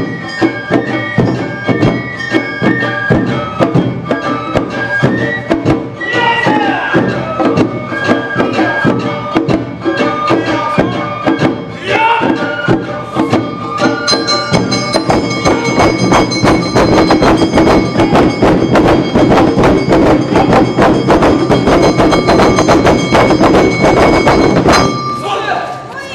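Awa Odori band music: a high bamboo flute melody over a fast, steady beat of drums and gong. About halfway through it thickens into a dense, driving finale, then stops abruptly just before the end.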